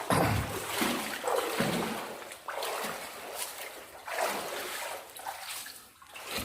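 Footsteps wading through shallow water, a splash and slosh with each step, a little more than one step a second.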